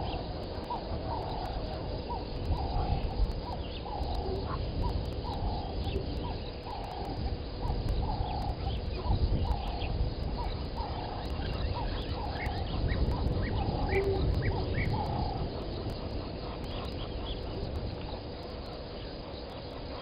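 A bird calling a long series of short, low hooting notes, about one and a half a second, that stops about three quarters of the way through; a few brief higher chirps join in around the middle, over a steady low rumble.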